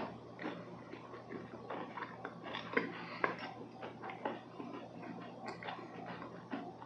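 Close-miked chewing of crisp lemon meringue cookies: a dense run of small irregular crackles and clicks, with a couple of sharper snaps a little under three seconds in.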